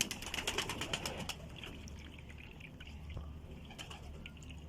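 Pigeons splashing in a tub of water as they bathe. There is a quick flurry of splashes in the first second or so, then scattered drips and small splashes.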